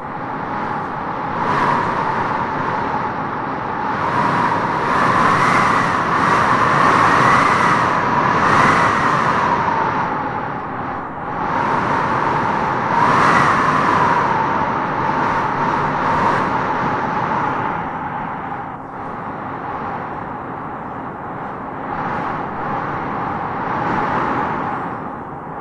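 Strong wind blowing in gusts, with a whistling howl that rises and falls in pitch as each gust swells; the gusts are strongest in the first half and ease toward the end.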